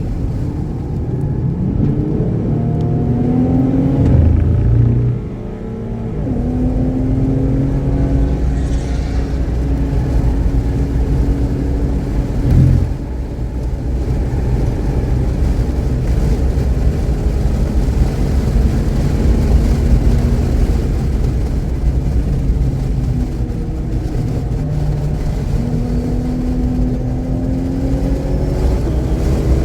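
Race-track car engine under hard acceleration, its pitch climbing and falling again and again through gear changes and braking, with a brief dip about five seconds in and a short thud a little before halfway. The engine is running without a misfire.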